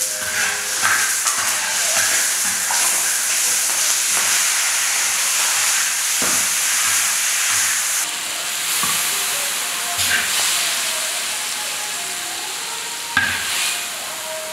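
Pumpkin slices frying in oil in a large wok, with a loud, steady sizzle. A metal spatula stirs them and knocks against the wok a few times.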